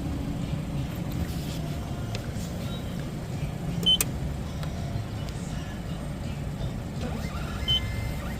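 Car engine idling, heard from inside the cabin as a steady low rumble, with two short high beeps, one about halfway through and one near the end.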